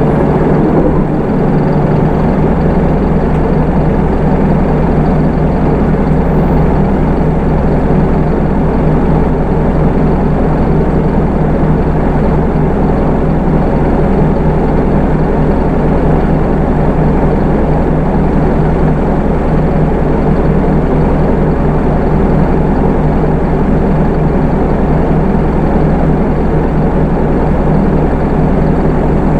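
Hino Rainbow II bus's Isuzu 4HK1 four-cylinder diesel engine running steadily, heard from inside the passenger cabin. Its low hum settles into an even drone about two seconds in.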